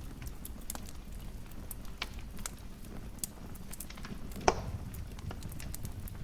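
Wood fire crackling in a fireplace: scattered small snaps and pops over a low rumble, with one sharper, louder pop about four and a half seconds in.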